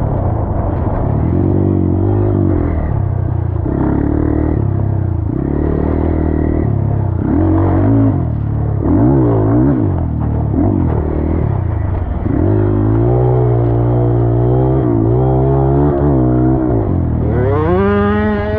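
Dirt bike engine riding on a track, repeatedly revving up and easing off through the gears. A second engine's pitch crosses it around the middle, and a quick rev-up comes near the end.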